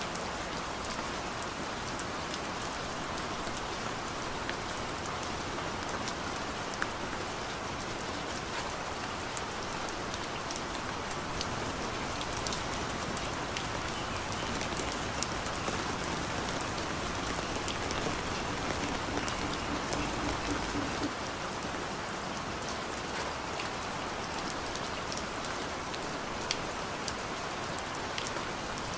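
Steady rain falling: an even hiss with scattered drops ticking sharply on a surface.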